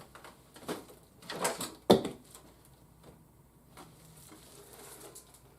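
Handling of a boxed action figure and its packaging: a few knocks and rustles, with one sharp click about two seconds in, then quiet handling.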